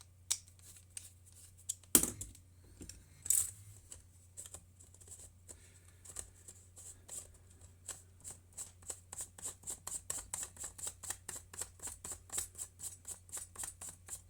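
A worm-drive hose clamp being tightened with a screwdriver to hold a mesh intake screen on a Dell'Orto PHM40 carburettor. A few handling knocks come first, then a fast, even run of clicks, about five a second, as the screw turns through the band's slots.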